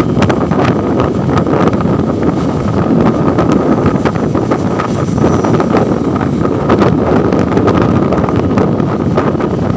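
Wind buffeting the microphone: a loud, steady rumble with crackling, over a faint steady high tone.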